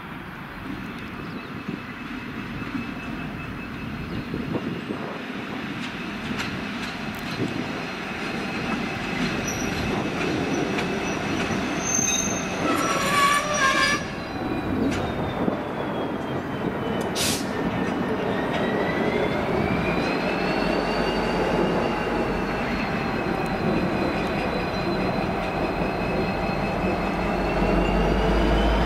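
Train moving slowly through a rail yard: rolling wheel rumble and long, wavering wheel squeal on the curves and points. A diesel-electric locomotive's engine rumble grows louder in the second half as a V/Line N class locomotive runs along the track.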